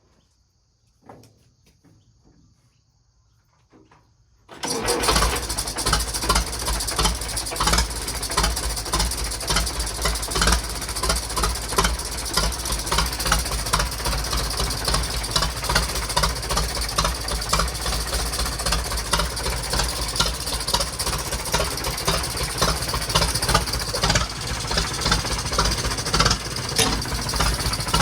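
A414 tractor's old engine starting abruptly about four and a half seconds in, after a few faint clicks, then running steadily with a fast, even beat.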